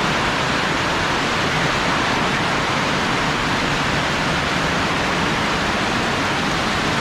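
Heavy rain pouring down in a rainstorm: a loud, steady, even hiss.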